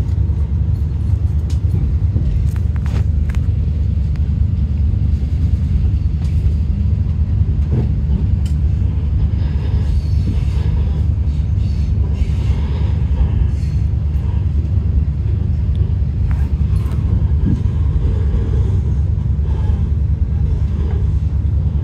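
Endeavour diesel railcar heard from inside the carriage while moving: a steady low rumble of engine and running gear, with a few sharp clicks in the first few seconds.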